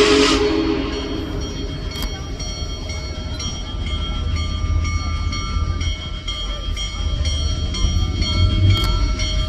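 Union Pacific Big Boy steam locomotive and its train rolling past on the track: a steady low rumble with thin high metallic squeals from the steel wheels on the rails, breaking off and resuming over and over. A steam whistle and hiss cut off just as it begins.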